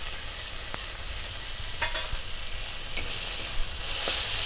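Ground onion paste frying in mustard oil in a steel kadai, sizzling steadily while a metal spatula stirs it, with a few sharp clinks of the spatula on the pan. The sizzle gets louder near the end as the freshly added green chilli, garlic and ginger paste is stirred in.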